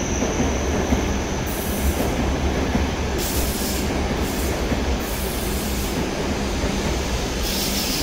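Shinkansen train moving along the station platform: a steady low rumble with several short bursts of high hiss.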